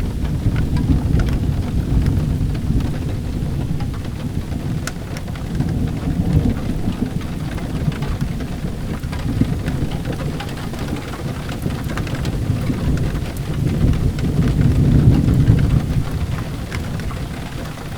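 Steady rain with a low, rolling thunder rumble that swells near the end, and scattered sharp clicks throughout.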